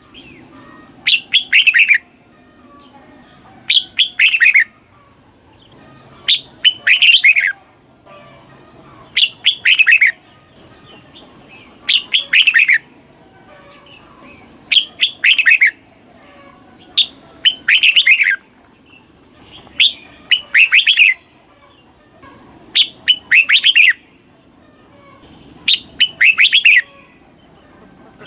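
Red-whiskered bulbul singing: about ten short, loud, whistled song phrases, each a quick run of falling notes, repeating every two to three seconds.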